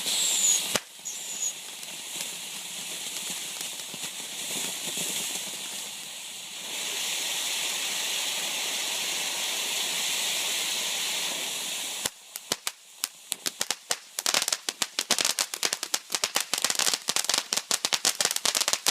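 A small consumer ground firework hissing steadily, with two short high whistles near the start, then after about twelve seconds breaking into rapid crackling pops.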